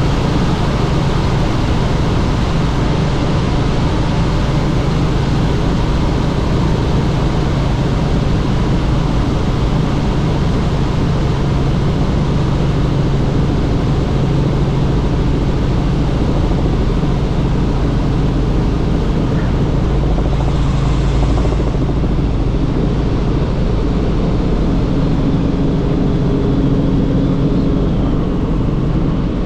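Helicopter in flight heard from on board: steady, loud rotor and engine noise with a low hum.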